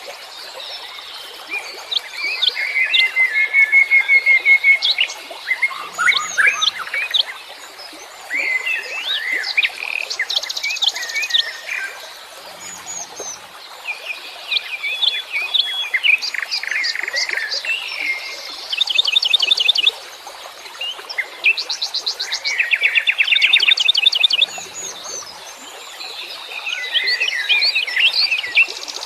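Many wild birds chirping and singing at once, a busy chorus of overlapping short whistles and chirps, with several fast trills of rapidly repeated notes.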